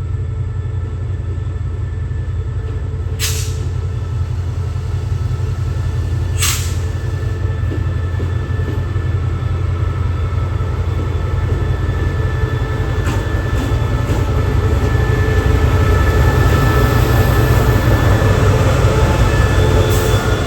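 A train rolling along the track with a steady low rumble that grows louder, thin steady whining tones running above it. Two sharp clicks come about three and six and a half seconds in.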